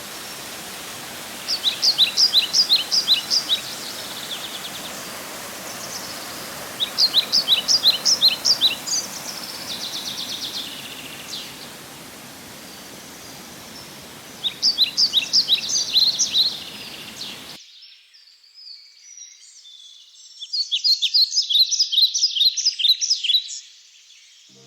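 A songbird repeating a quick phrase of about ten high, sharp notes, four times with pauses of several seconds, over a steady hiss of outdoor noise that cuts out suddenly about two-thirds of the way through.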